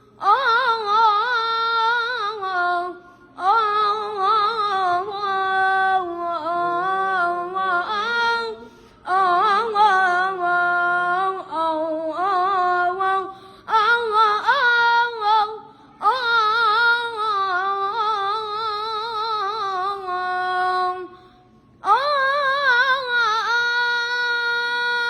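A boy singing solo and unaccompanied in a high voice. He sings long phrases of wavering, ornamented notes and breaks briefly for breath between them.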